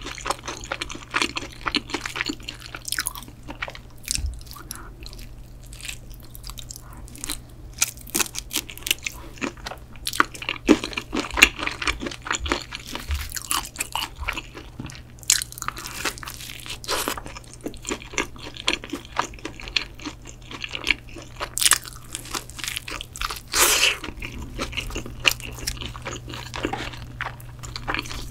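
Close-miked crunchy bites and chewing of a crispy toasted bread pizza crust: irregular crackling crunches, mouth sounds and chewing, over a faint steady low hum.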